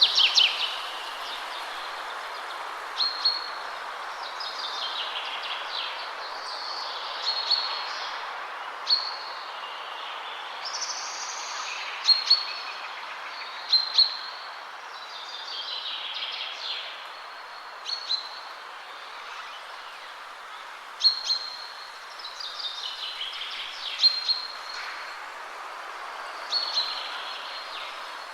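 Songbirds singing and calling in woodland, short high chirps and trills repeating every second or two, over a steady rush of spring wind through the trees.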